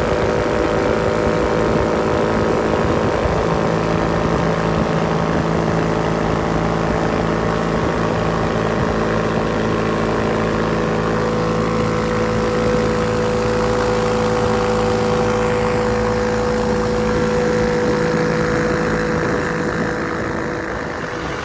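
Rotax 582 two-stroke, two-cylinder engine of an ultralight aircraft running steadily at a constant speed, driving its propeller; the level eases off slightly near the end.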